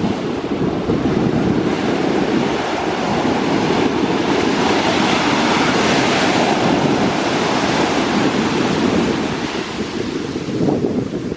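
Atlantic Ocean surf breaking and washing, with wind buffeting the microphone as a steady low rumble. The hiss of a breaking wave swells to a peak about halfway through, then eases off.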